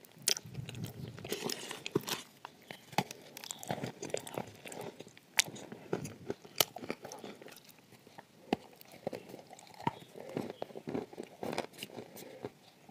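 A person biting and chewing dry edible clay and chalk close to a clip-on microphone: irregular sharp crunches scattered among softer chewing.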